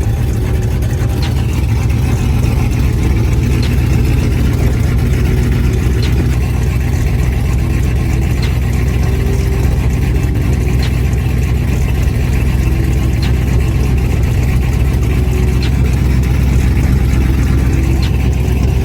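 A burnout truck's engine with an aftermarket cam, idling steadily and loudly.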